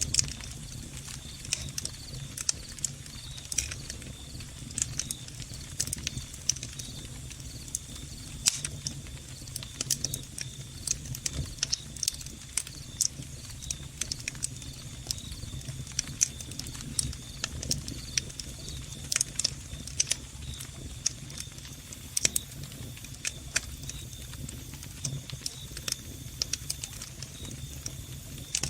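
Log fire crackling, with frequent sharp, irregular pops and snaps, over crickets chirping in a steady high trill and a steady low hum.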